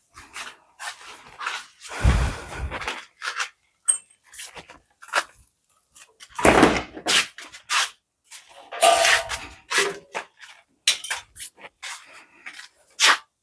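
Irregular knocks and scraping of masonry work with bricks and cement mortar, with heavier thuds about two seconds in and again a little past the middle.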